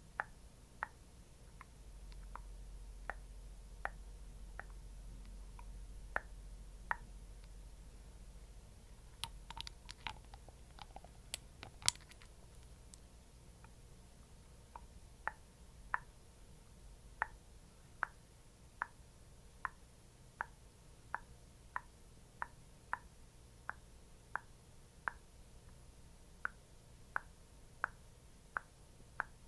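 Soft, sticky tapping sounds of skincare being patted on, the taps sparse at first, then falling into an even rhythm of a little more than one a second in the second half. A short flurry of sharper clicks comes about a third of the way in.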